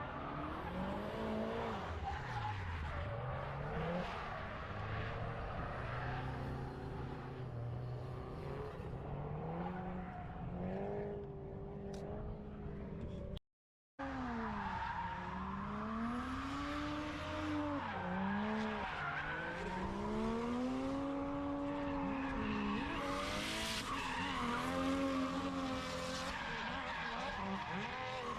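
Drift car engines revving, their pitch rising and falling again and again as the cars slide, with tyres skidding. The sound cuts out completely for about half a second near the middle.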